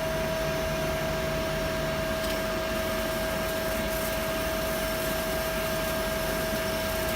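CNC turning centre running with its spindle and chuck turning: a steady machine hum with a constant whining tone.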